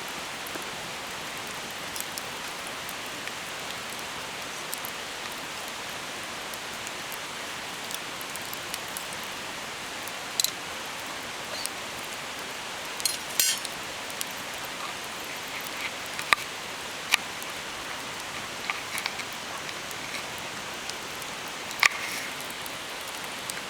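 Open wood fire burning: a steady hiss with scattered sharp crackles and pops, a few of them louder.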